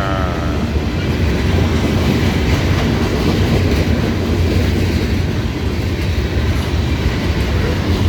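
Freight cars of a CSX rock train rolling steadily past: a loud, continuous noise of steel wheels on rail.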